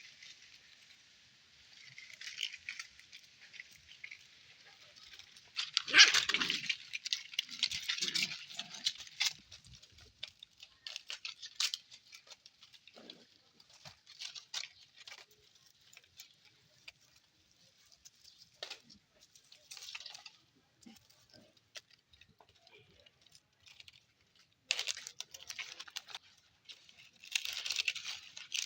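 Puppies making high-pitched yelps and squeaks on and off. It is loudest about six seconds in, thins out in the middle, and picks up again near the end.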